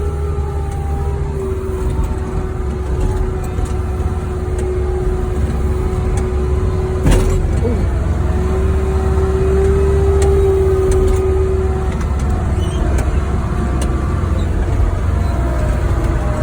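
Wheel loader's diesel engine running steadily under a load of firewood, with a held whine over the engine hum, light rattles, and one sharp clunk about seven seconds in as it jolts over a rough trail.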